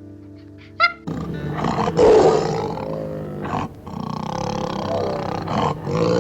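Lion roaring, starting about a second in and going on in rough, growly stretches, over background music.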